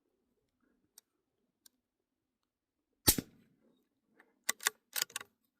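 .17 HMR rifle shot about three seconds in, a single sharp crack, followed a second and a half later by a quick run of clicks.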